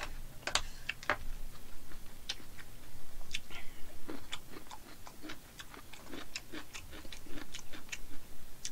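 A person chewing food close to the microphone: irregular wet mouth clicks and smacks, a few a second.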